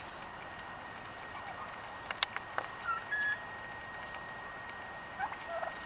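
Wild turkeys giving a few short, soft calls, with a cluster of sharp ticks about two seconds in and a faint steady high tone throughout.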